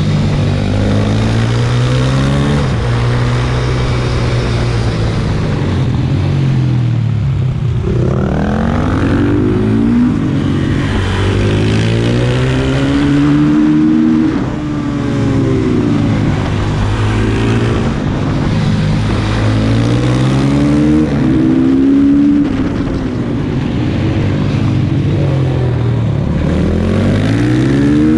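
Onboard sound of a single-cylinder four-stroke supermoto engine, a Honda CRF150R, revving up and dropping off again and again as the rider accelerates out of corners and shuts off into them, with wind rushing past.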